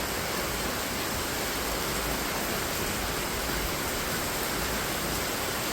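Heavy tropical rain pouring down steadily: a dense, even hiss of rainfall with no breaks.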